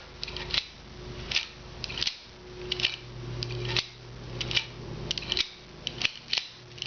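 The hinged doors of a mock-up forearm rocket launcher clicking open and shut again and again as the arm extends and retracts: a string of sharp snaps, roughly one to two a second.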